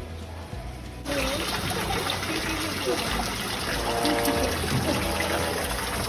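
Steady rush of running, splashing water that starts abruptly about a second in, with faint voices behind it.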